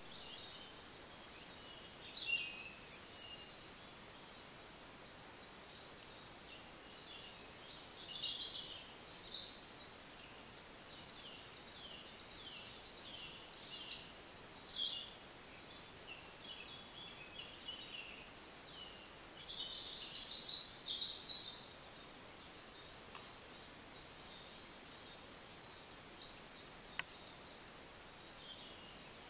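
Songbird singing in woodland at dawn: a short phrase of high chirps and whistled notes about every five to six seconds, over a steady hiss.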